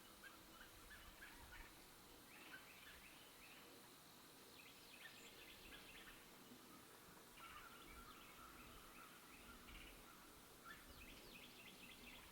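Near silence with faint distant bird calls: short runs of rapid high notes, each a second or so long, coming every couple of seconds.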